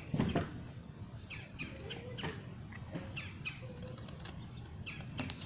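A bird chirping over and over in short, downward-slurred chirps, a couple of times a second. A dull thump sounds just after the start, the loudest moment.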